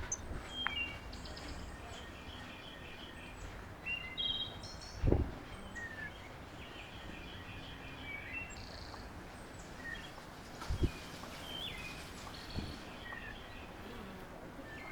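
Small songbirds chirping and calling at a backyard feeder, short notes scattered throughout over a steady outdoor hiss. Three short low thumps break in, near the start, about five seconds in and near eleven seconds.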